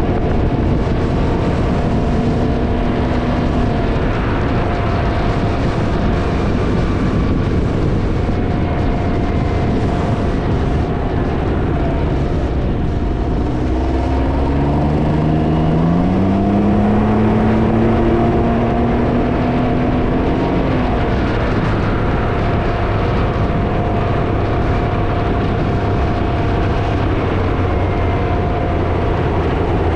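Can-Am Ryker three-wheeled motorcycle on the move, with heavy wind noise buffeting the microphone over the engine. About halfway through, the engine note climbs as it accelerates, holds, then eases off.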